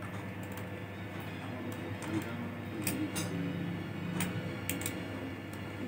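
Scattered light clicks and taps of small screws and a screwdriver being handled on a laptop's plastic and metal parts during reassembly, at irregular intervals. Faint background music or voices run underneath.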